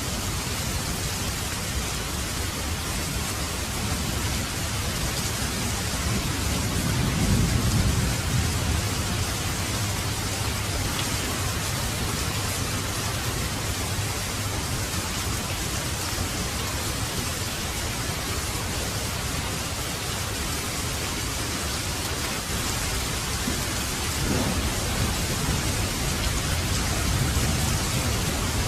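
Heavy rain falling steadily, with a low roll of thunder about seven seconds in and a fainter rumble near the end.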